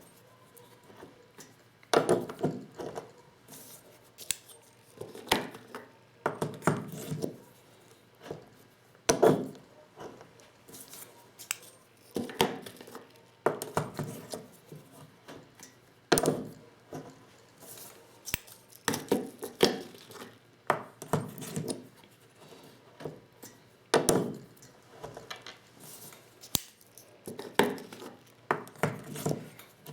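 Clinks and knocks of a hand-operated Lee Loader shotgun shell reloading set as its metal and plastic parts and the shells are handled and tapped, coming in irregular clusters every second or two.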